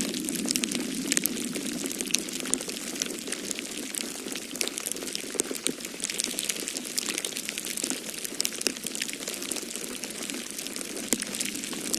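Wood fire crackling with frequent sharp pops and snaps, over a steady low rush of storm wind.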